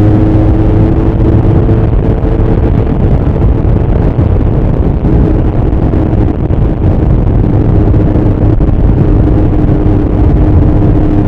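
Suzuki GS1000 inline-four engine of a Bimota SB3 motorcycle running under way, its exhaust note mixed with heavy wind rush. The engine tone rises slightly, is then largely covered by the wind, and comes back as a steady tone about halfway through.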